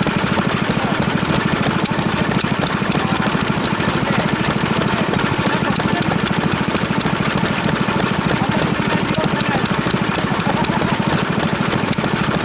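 Old stationary engine running steadily with an even, rapid beat.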